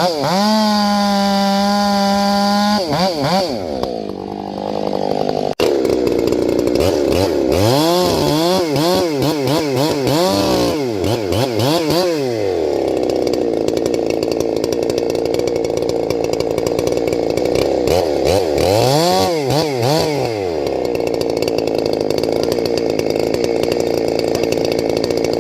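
Large two-stroke chainsaw bucking firewood: held at a steady high rev near the start, then revved up and down repeatedly between stretches of a steadier, lower note as it runs under load in the wood, with another run of revs about twenty seconds in.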